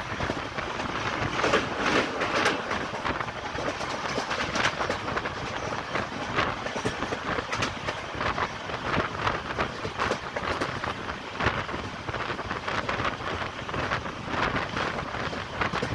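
Train running at speed, heard from inside a carriage at the window: a steady rush of rolling noise and wind with irregular clatter from the wheels on the rails.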